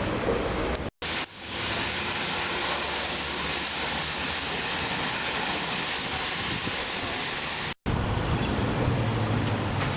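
Steady rushing hiss of car wash equipment, with a faint low engine hum underneath. The sound cuts out sharply twice, about a second in and near the end.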